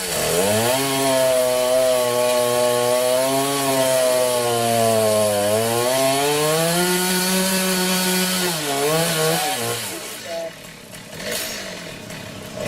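Chainsaw cutting through a tree branch. The engine note runs steadily, sags in pitch under load midway and climbs back, then falls away about three-quarters of the way in.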